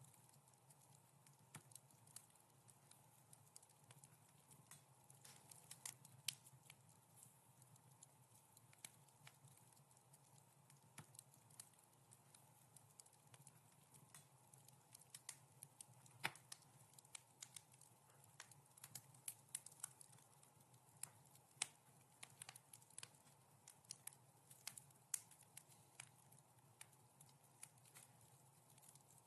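Wood fire crackling: irregular sharp pops and snaps over a faint steady background, coming more often in the second half.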